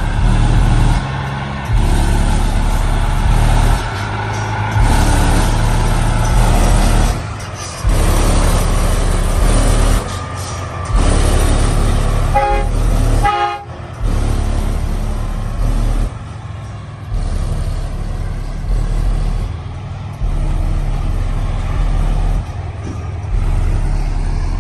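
Loud, bass-heavy music played through a semi truck's subwoofer system, with deep bass notes changing every second or two.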